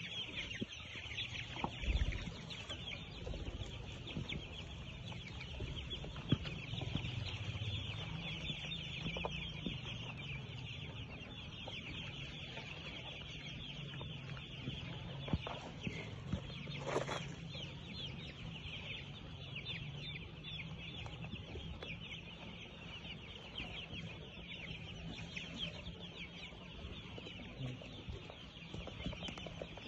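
A flock of chickens clucking and calling continuously, many birds at once, with a low steady hum underneath.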